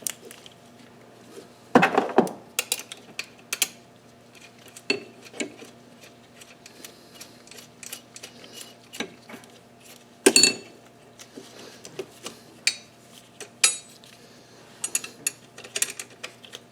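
Metal tools and parts clinking and knocking at irregular intervals during hand work in a car's engine bay, with two louder knocks, about two seconds in and about ten seconds in.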